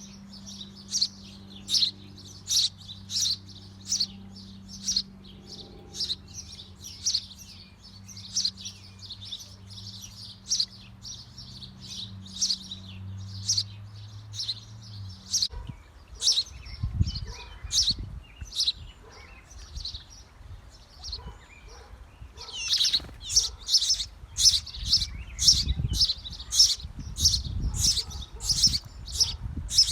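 A bird at a birdhouse chirps over and over in short high notes, about two a second. About two-thirds of the way in the chirps come faster and louder. A low steady hum stops about halfway through, and a low rumble follows.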